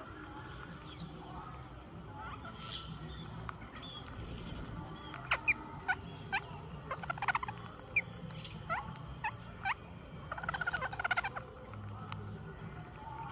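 Rose-ringed parakeets calling: many short, sharp screeches in quick succession, loudest in the middle, with a fast rattling chatter near the end, over a low steady hum.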